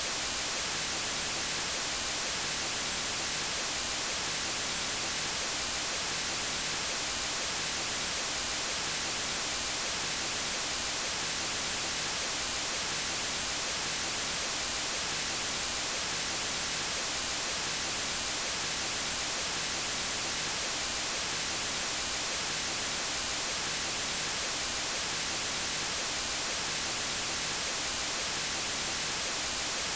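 Steady white noise: an even, unbroken hiss, strongest in the high register.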